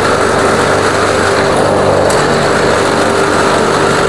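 Weed Eater push mower's 140cc PowerMore single-cylinder engine running steadily, fitted with a new NGK spark plug and hot from earlier running.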